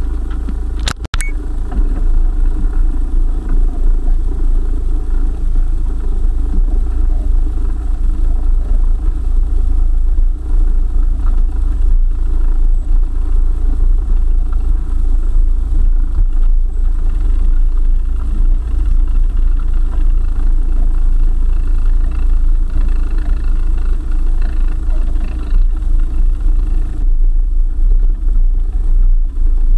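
4x4 off-road vehicle driving on a forest track, its engine and running gear giving a steady low rumble. There is a short click and dropout about a second in.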